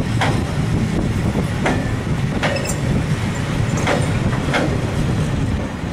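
Freight train of covered sliding-wall wagons rolling past: a steady rumble of wheels on rail with a clack about once a second as the wheels cross rail joints. The last wagons go by near the end.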